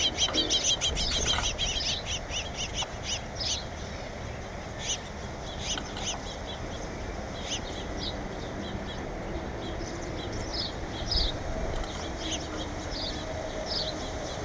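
Birds chirping: a fast run of high chirps at first, thinning to scattered single chirps every second or so.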